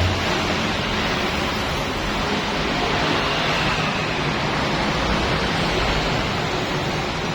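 Steady rushing hiss of water spraying, with no breaks or rhythm.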